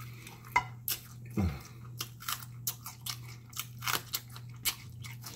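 Close-miked mukbang eating: wet chewing, biting and mouth smacks on pig feet and pigtail meat, with a crunchy bite into a fresh jalapeño pepper about four seconds in. A faint steady low hum runs underneath.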